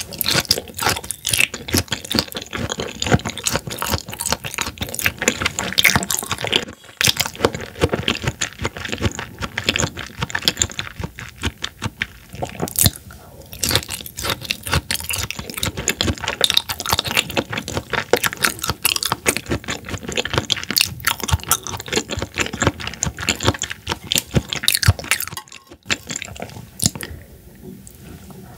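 Close-miked wet chewing of raw horse mackerel sashimi: dense, irregular moist clicks and smacks, with a few short pauses between mouthfuls.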